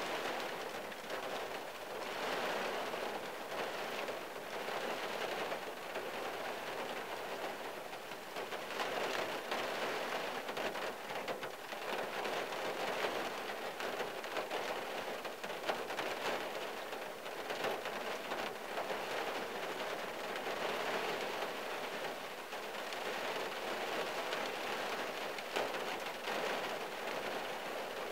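Rain falling on a car's windshield and roof, heard from inside the car: a dense, steady spatter of drops that swells and eases a little every few seconds.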